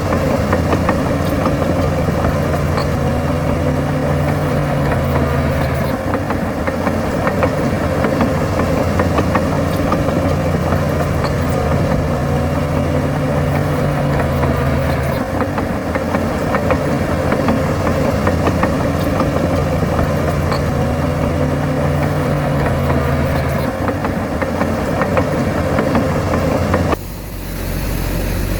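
Heavy diesel engine of a bulldozer running continuously, its note and load rising and easing in a repeating cycle about every nine seconds, as in push-and-reverse dozing. Near the end the sound changes abruptly to a quieter, different engine sound.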